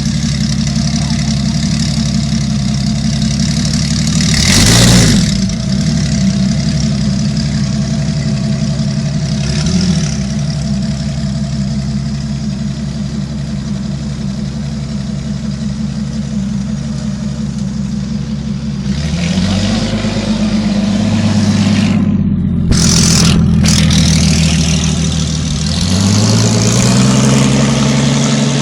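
Twelve-cylinder Aston Martin engine of a custom motorbike idling, blipped sharply about five seconds in and lightly near ten seconds. Revs rise and fall again from about nineteen seconds, and again near the end.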